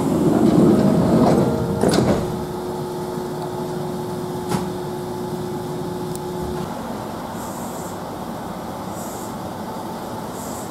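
Kintetsu local train at a station platform. A loud rushing clatter ends in a sharp knock about two seconds in, and a steady hum of the stopped train follows.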